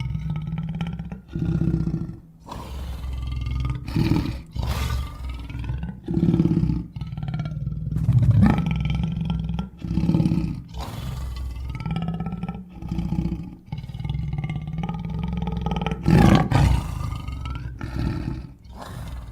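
Big-cat roars and growls played one after another as edited sound effects. Each clip lasts one to three seconds and breaks off abruptly before the next begins, with a loud roar near the end.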